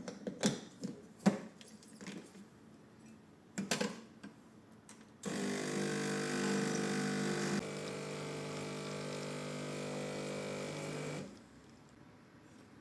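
A few light knocks and clicks of kitchen handling, then a small electric motor that switches on about five seconds in, runs steadily for about six seconds, becoming a little quieter partway through, and cuts off suddenly.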